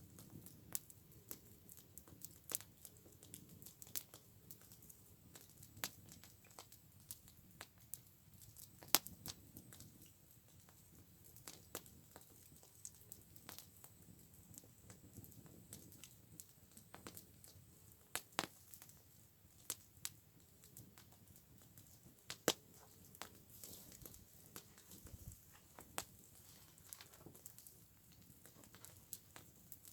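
Campfire crackling, with sharp, irregular pops and snaps over a low, faint rumble.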